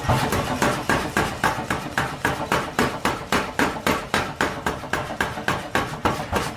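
Forging hammer striking steel in a rapid, even rhythm of about four to five blows a second.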